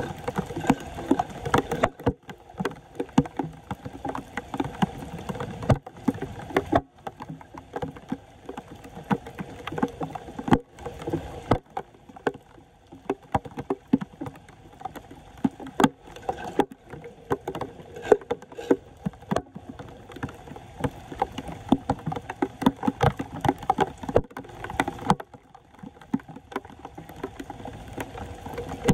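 Floodwater splashing and sloshing with irregular knocks and scrapes, from debris being cleared by hand out of a clogged street drain.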